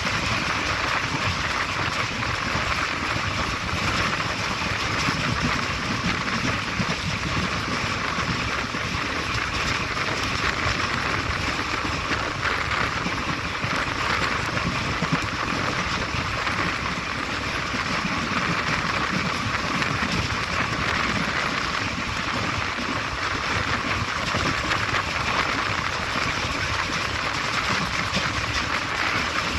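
Passenger train running at speed, heard at the open side of a coach: a steady rush of wind mixed with the rumble of the wheels on the rails.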